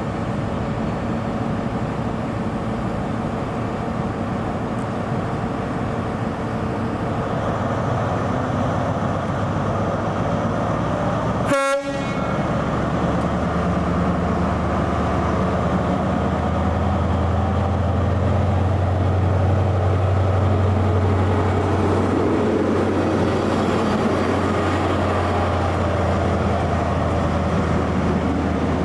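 Diesel train running along the line, a steady rumble of engine and wheels on rail. There is a brief break about twelve seconds in, after which a deep engine drone swells and then eases.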